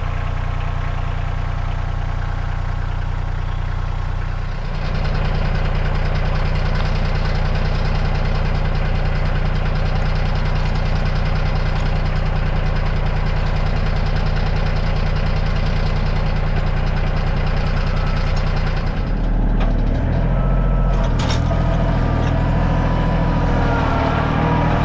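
Kioti CK2610 compact tractor's three-cylinder diesel engine running steadily. It gets louder about four to five seconds in, and its tone shifts in steps over the last few seconds.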